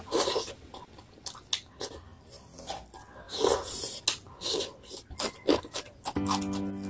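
Close-up eating sounds as a woman chews tilapia in yellow spice broth, eaten by hand: a string of wet smacks and clicks from lips and mouth. Background music comes in near the end.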